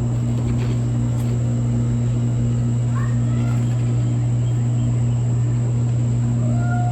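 Outdoor ambience dominated by a steady low hum with a weaker higher tone above it. Faint short chirps come about three seconds in and again near the end.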